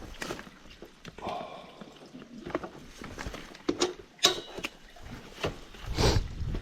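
Water trickling and splashing from a village drinking fountain's spout, with scattered sharp clicks and knocks.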